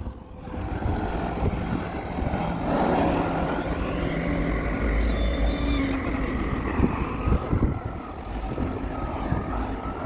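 Caterpillar wheel loader working, its diesel engine running steadily with a low rumble. A few sharp knocks come about seven seconds in.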